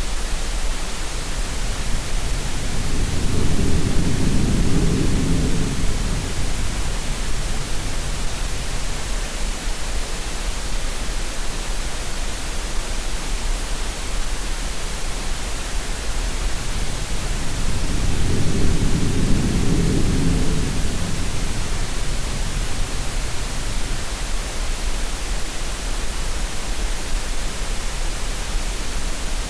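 Steady green-noise hiss with the sea mixed in: two slow, deep swells of wave wash rise and fall, one a few seconds in and one about two-thirds of the way through.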